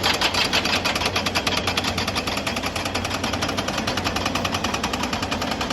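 Hydraulic rock breaker hammering rock in a rapid, even rhythm, over the steady hum of the machine's engine.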